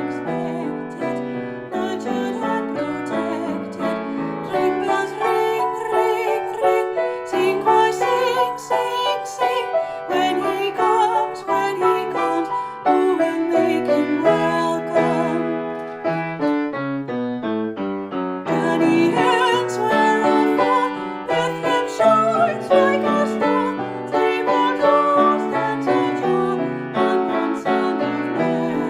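Hymn music: a piano playing, with a singing voice over it.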